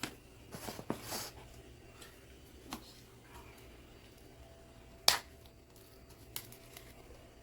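Scattered light clicks and taps of craft supplies being handled while homemade fake snow is mixed, with one sharper click about five seconds in.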